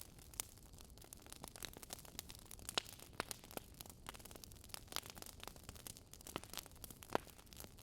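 Wood fire burning in a fireplace: steady low hiss with irregular crackles and several sharper pops of burning logs.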